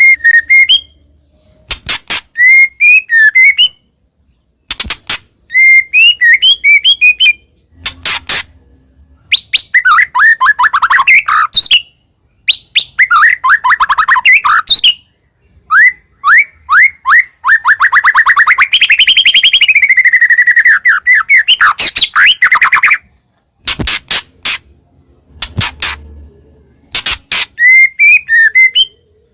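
White-rumped shama (murai batu) singing loud, varied phrases of whistles and sharp clicks, broken by short pauses. In the middle come long rapid trills of repeated notes.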